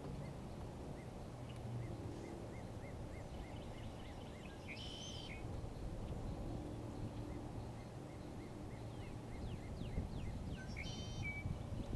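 Small birds calling over a steady low outdoor rumble: a run of quick, evenly repeated chirps through the first few seconds, a short call about five seconds in, a few quick falling notes, and another short call near the end.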